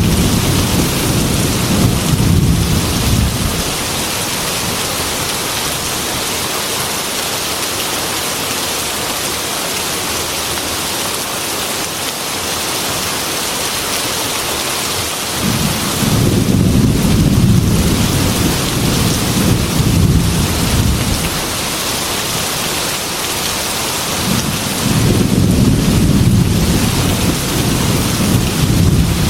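Heavy rain beating steadily on window glass, with rolls of thunder: one fading out in the first few seconds, another about halfway through lasting several seconds, and a third near the end.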